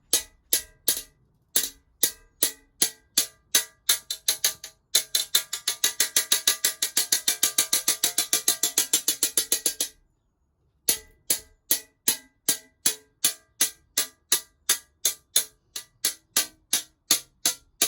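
Glass cutter's ball end tapping the underside of a scored pane of glass, each tap a short ringing clink, to run the score so the glass snaps cleanly. The taps come about three a second, turn into a fast even run for about five seconds in the middle, stop dead for about a second, then carry on at the slower pace.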